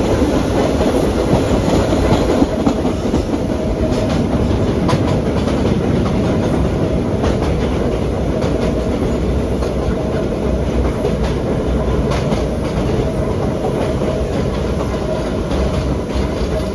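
Vintage BMT BU gate cars running at speed, heard from aboard: a steady loud rumble of wheels on rail with scattered clicks over the rail joints.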